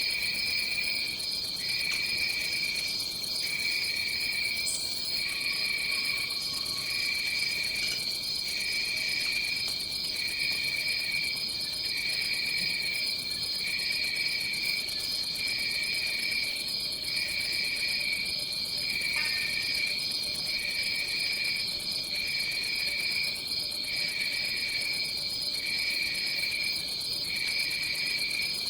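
Chorus of rainforest insects trilling steadily: one high, continuous buzzing trill, and a lower trill that breaks off and restarts about once a second.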